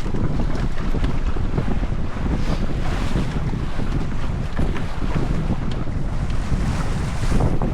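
Wind buffeting the microphone over the rush and slap of water along the hull of a sailboat under way.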